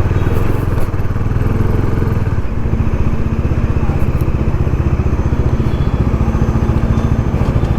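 Motorcycle engine running steadily while riding, with a fast, even throb.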